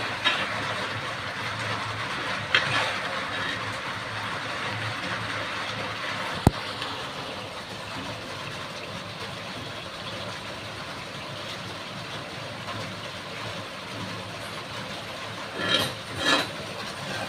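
Food frying in a pan with a steady sizzle. A few sharp clicks are heard, and two knocks near the end, like a utensil striking the pan.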